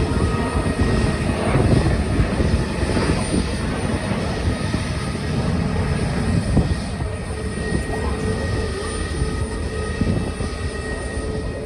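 Jet airliner's engines at takeoff power: a loud low rumble with a few faint steady tones above it, easing slightly toward the end.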